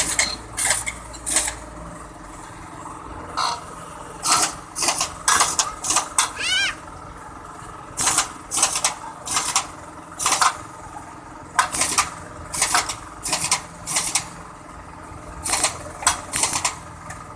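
Repeated short bursts from a pneumatic air tool, each a fraction of a second, coming irregularly about once or twice a second with gaps between runs. A brief rising squeal comes about six seconds in.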